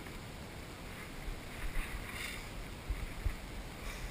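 Wind buffeting the microphone outdoors: a steady rush with a few low rumbling gusts about halfway through.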